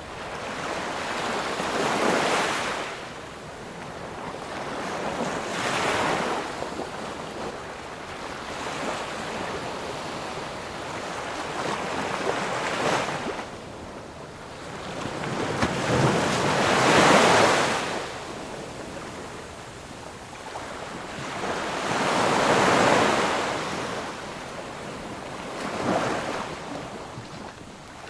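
Ocean waves breaking and washing onto a shore, a rushing surge every few seconds, six in all, the loudest about two-thirds of the way through, over a steady hiss of surf.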